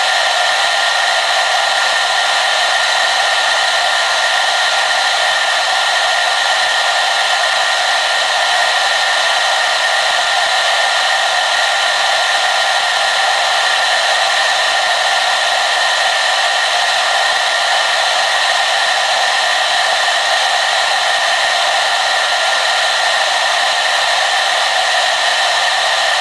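Hair dryer blowing steadily, a constant airy rush with a faint whine held at one pitch, without any change.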